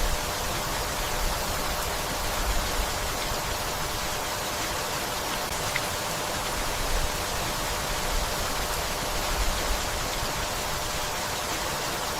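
Steady rainfall, an even hiss of many drops, with a few brief low swells now and then.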